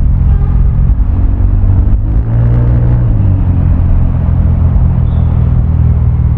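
Vespa scooter's single-cylinder four-stroke engine running loud through a Prospeed Black CNC aftermarket exhaust while riding. The low exhaust note dips briefly about two seconds in, then holds steady.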